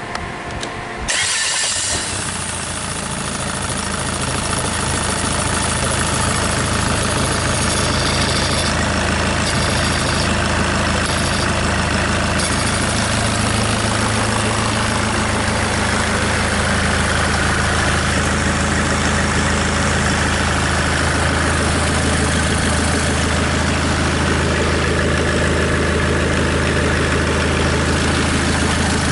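SsangYong 664-series four-cylinder turbodiesel, running out of the car on a test stand, cranks briefly and fires up about a second in, then settles into a steady idle.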